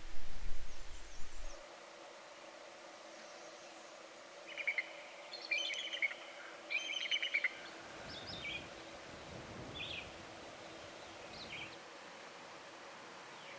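Songbirds singing: several quick bursts of chirping song in the middle, then a few single short calls, over a quiet outdoor background. It opens with a brief low rumble.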